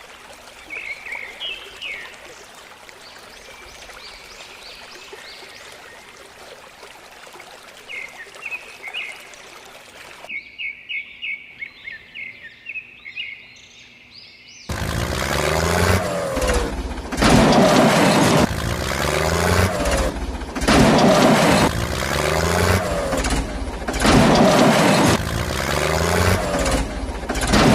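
Birds chirping faintly over a low steady background hiss. About halfway through, a much louder rhythmic sound cuts in and repeats in regular pulses.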